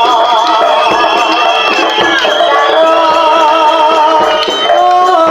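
Live Javanese jaranan ensemble music: a wavering melodic line over steady percussion with rattling strokes.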